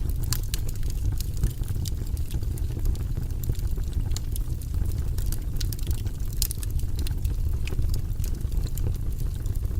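Wood fire burning in a fireplace: a steady low rumble of the flames with frequent, irregular crackles and pops.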